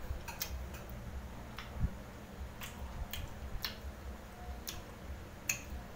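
A person chewing food, with about nine sharp, irregularly spaced mouth clicks and smacks. A low steady hum runs underneath.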